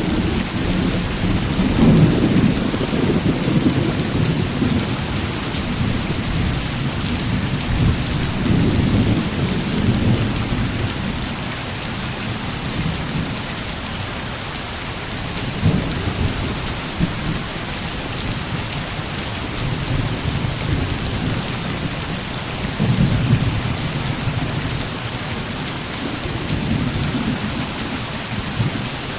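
Heavy rain falling steadily, with low rolling thunder rumbling several times.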